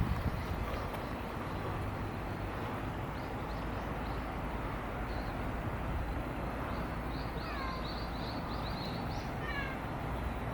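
A steady low background rumble. In the second half comes a quick run of short high chirps, then two short falling animal calls.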